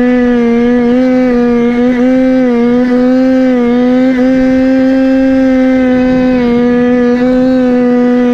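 Goped scooter's Chongyang CY26 26cc two-stroke engine running at high, steady revs under way, its pitch dipping briefly a few times as the throttle eases and comes back.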